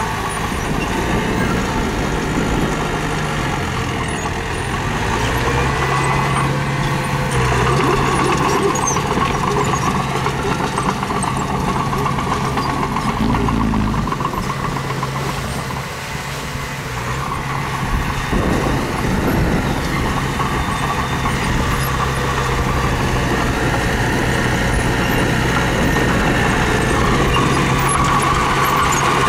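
Mini bulldozer's diesel engine running under load, its pitch and loudness shifting as it works, dipping briefly about halfway through and picking up again, with a single knock just after.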